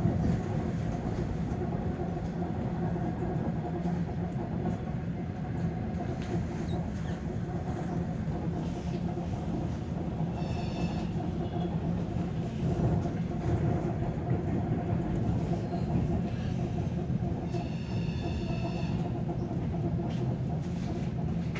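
Electric commuter train running steadily, heard from inside the carriage: a continuous rumble with a low hum. Twice a faint, brief high-pitched whine comes in, around the middle and again near the end.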